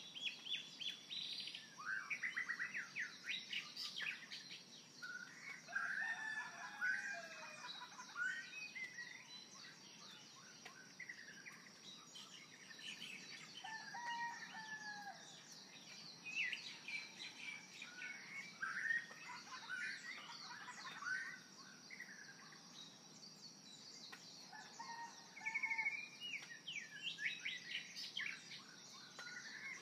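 Birds chirping and calling: many short chirps and quick whistled notes, overlapping and scattered, over a steady faint high tone.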